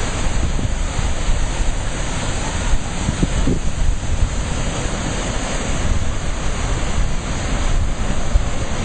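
Ocean waves breaking and rushing in surf, with wind buffeting the microphone.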